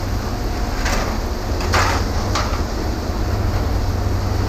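Three short scraping clatters, about one, two and two and a half seconds in, as a piece of light scrap paneling is handled, over a steady low rumble.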